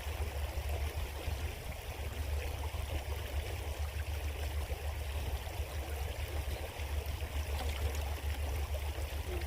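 Creek water running steadily, an even rushing sound with a constant low rumble underneath.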